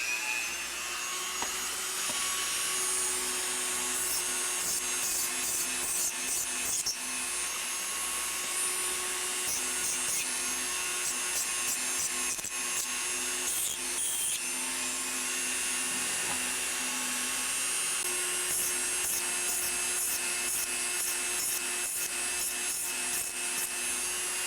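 Dremel rotary tool running with an abrasive wheel, scuffing the metal battery tabs to prepare them for soldering: a steady motor whine with uneven gritty grinding as the wheel touches the metal.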